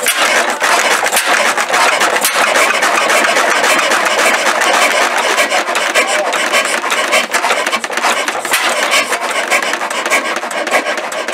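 A restored 1909 English-built stationary engine running, heard as a steady, dense rasping clatter.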